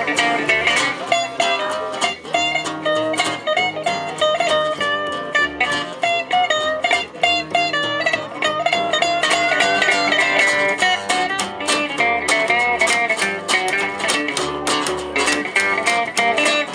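Gypsy jazz (jazz manouche) band playing an instrumental passage, with quick plucked acoustic guitar lines over a steady low accompaniment.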